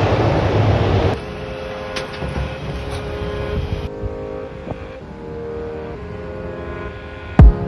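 Jet airliner noise with wind on the microphone, loud and rushing, cut off suddenly about a second in. A quieter steady hum follows, with two sharp loud hits near the end.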